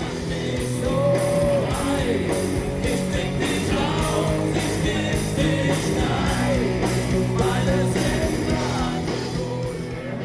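Live band playing an upbeat rock-and-roll song, with cymbal strikes about twice a second under a sung or played melody, stopping near the end.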